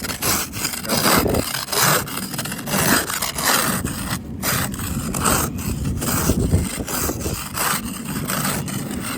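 Ice and snow being scraped off a car's glass in quick repeated strokes, about two to three a second.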